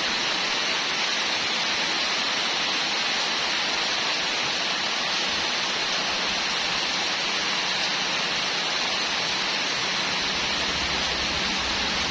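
A steady, even hiss, like water or air under pressure, with a low hum joining near the end.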